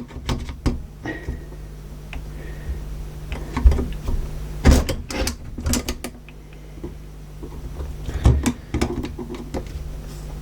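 Irregular clicks and knocks of small plastic and metal parts as a VCR's tape-loading mechanism is worked apart by hand, with a few sharper knocks about four to five seconds in and again after eight seconds.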